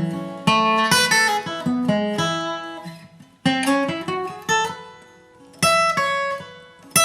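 Acoustic guitar flatpicking a bluegrass lead break, single notes and chords ringing out in short phrases with brief pauses between them.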